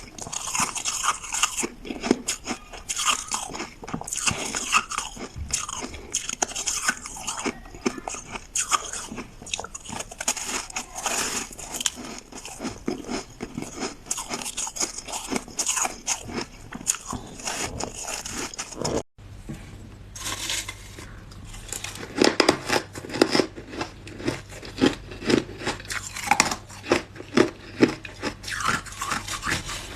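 Close-miked ice being bitten and chewed, a dense run of sharp crunches. About two-thirds of the way in the sound cuts abruptly to another take with a faint low hum and louder, more evenly spaced crunching bites.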